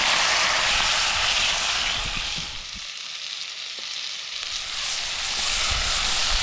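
Meat sizzling as it browns in a hot camp-oven pot over a campfire. The sizzle is loudest at first, eases off in the middle and builds again near the end.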